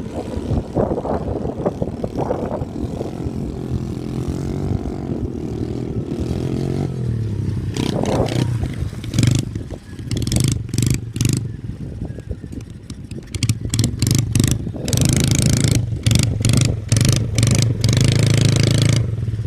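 Dirt bike engine running and revving up and down. Through the second half it is broken by many short, loud rushes of noise.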